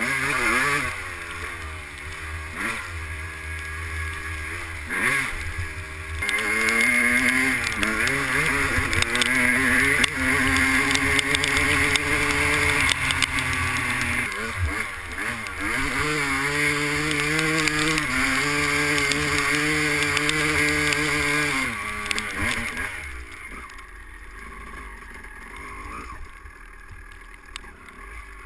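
250cc two-stroke motocross bike engine being ridden hard: the revs rise and fall with the throttle for the first few seconds, then hold high with a few steps through the gears. Low wind rumble sits under the engine. About 23 seconds in the throttle closes and the engine drops away to a much quieter sound.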